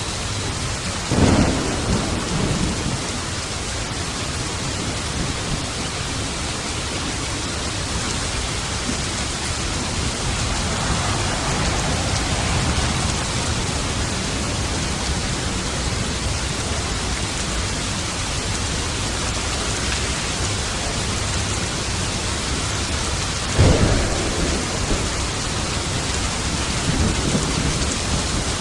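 Steady rain with thunder: a sharp thunderclap about a second in and another near the end, each trailing off into rumble, and a softer rolling rumble midway.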